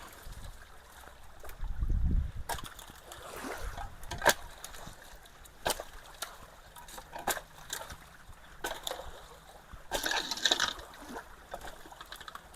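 Creek water splashing and trickling, with scattered sharp knocks and clicks, a low rumble about two seconds in and a louder splash about ten seconds in.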